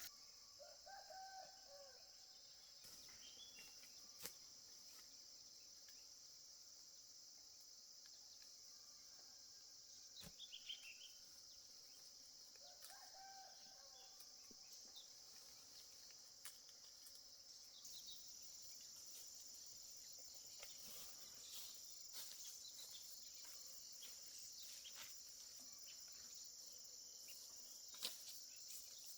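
Faint, steady high-pitched insect drone, with a chicken calling twice: once about a second in and again near the middle.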